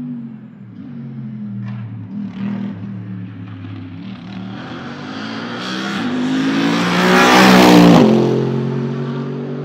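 Mercedes-Benz SLS AMG GT3's naturally aspirated 6.2-litre V8 approaching under power, growing steadily louder and passing by about eight seconds in, its pitch dropping as it goes away.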